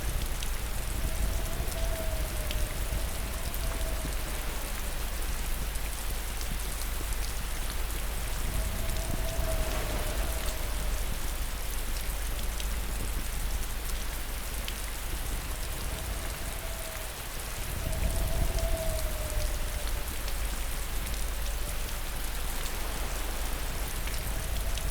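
Steady, heavy rain falling, an even hiss of drops. A faint wavering tone comes and goes every few seconds, and a low rumble swells up about eighteen seconds in.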